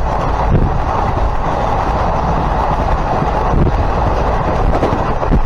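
Passenger train running along the track, heard on board: a steady rumble of wheels on rails.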